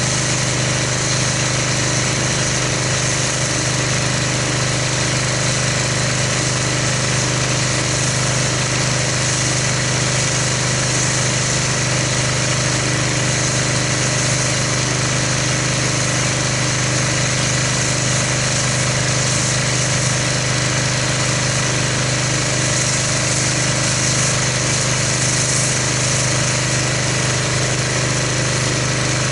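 Pressure washer running steadily, driving an MTM foam cannon that sprays car-wash foam: a constant motor hum with an even hiss of spray over it.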